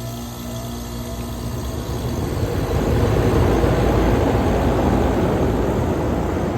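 Ducane heat pump outdoor unit starting up: a faint rising motor whine in the first second, then a whooshing rush of fan air that grows over the next couple of seconds and holds steady.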